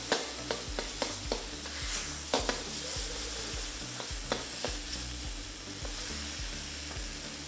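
Fermented beancurd sizzling in hot oil in a wok, with a metal spatula scraping and tapping against the pan at irregular moments as it breaks the beancurd up.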